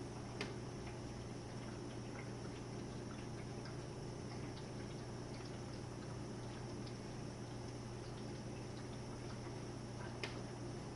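Jenn-Air dishwasher on its Quick Wash cycle: a steady low hum with water trickling and dripping inside the tub, scattered small ticks, and two sharper clicks, one about half a second in and one near the end.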